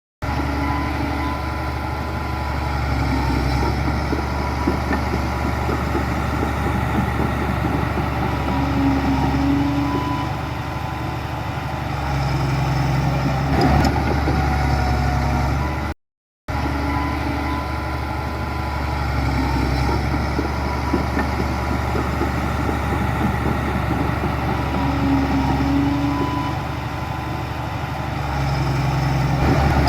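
Diesel engine of heavy earthmoving machinery running steadily at a constant pitch, cutting out for a split second about halfway through.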